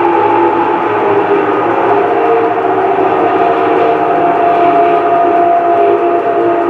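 Industrial hydro extractor spinning its drum, a loud steady whine made of several tones that slowly sink in pitch. The drum is running true after its loose centre nut was tightened, so it is not shaking.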